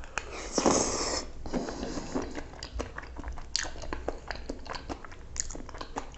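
Close-miked mouth sounds of chewing a mouthful of creamy red-sauce pasta: wet smacking with many short, sharp clicks, loudest about half a second to a second in.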